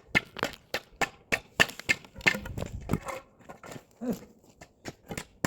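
Irregular series of sharp wooden knocks and clacks, about three or four a second, from pieces of pallet wood being handled and struck.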